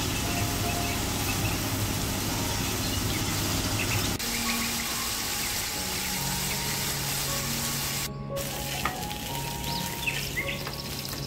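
Crumbled soft tofu sizzling as it fries in oil in a nonstick pan, loudest in the first four seconds or so, with soft background music over it.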